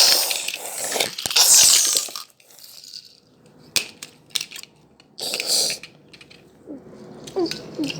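Car crash noises: loud bursts of crunching, scraping noise and several sharp knocks, with a few short squeaks near the end.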